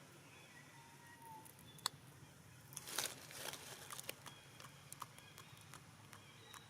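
Monkeys foraging: faint rustling and crackling, loudest about three seconds in, with a sharp click just before two seconds and scattered small clicks. Faint thin high chirping calls sound now and then.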